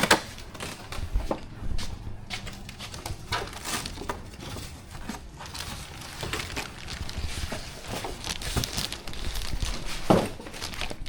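Packaging being handled and unpacked: plastic and cardboard rustling and crinkling, with irregular small knocks and scrapes.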